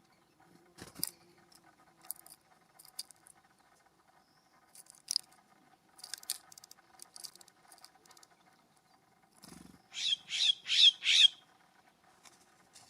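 Scattered light taps and rustles, then a bird giving four loud, harsh calls in quick succession near the end.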